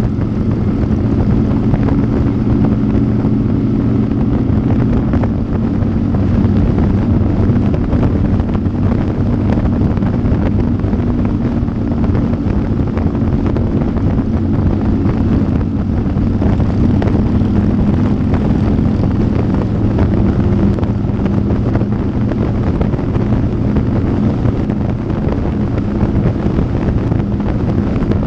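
Motorcycle engine running at a steady cruising speed with its exhaust note holding pitch, mixed with wind rushing over the microphone.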